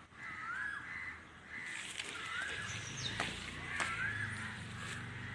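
A bird calling over and over in short rising-and-falling calls, about one every second or so, with a thinner falling whistle a little after the middle and a few sharp clicks.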